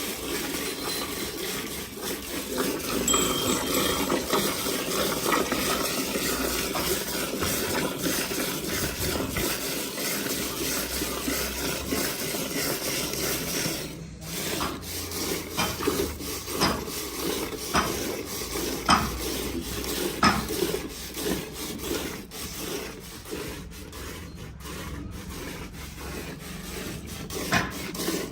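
Milk squirted by hand from a cow's teats into a metal pail: a dense, continuous spraying hiss, which turns into slower, separate squirts from about halfway on.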